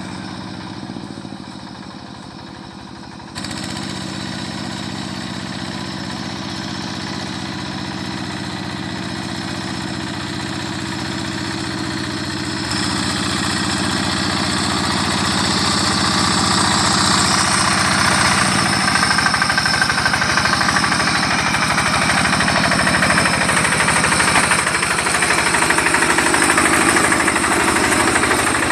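Rice-field tractor's engine running steadily. It jumps louder a few seconds in, then grows louder and noisier through the second half.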